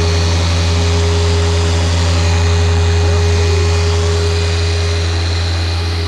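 Single-turbo BMW 135i's N54 engine running at a steady speed, a loud even low drone that holds constant throughout.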